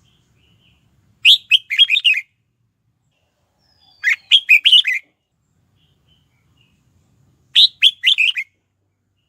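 Red-whiskered bulbul singing: three short, quick phrases of several clear whistled notes each, a few seconds apart.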